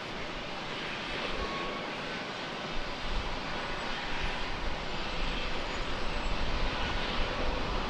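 Jet airliner engines rumbling, growing louder and more uneven about three seconds in.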